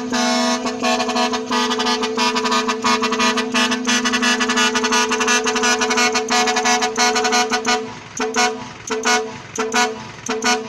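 Truck horn sounding one steady note for about eight seconds, then a run of short toots near the end.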